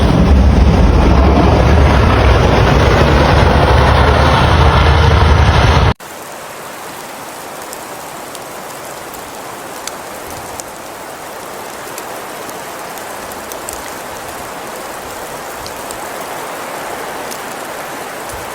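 Storm noise: a loud, steady rumble of wind cuts off abruptly about six seconds in, giving way to a quieter, steady hiss of falling precipitation with faint scattered ticks.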